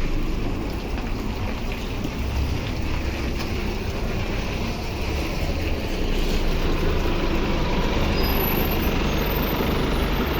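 Scania K280UB city bus running, a steady engine and road rumble that grows louder about six seconds in.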